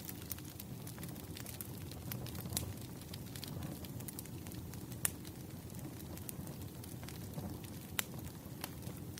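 Bonfire crackling: a steady low rumble of burning wood with scattered sharp pops and snaps, the loudest about five and eight seconds in.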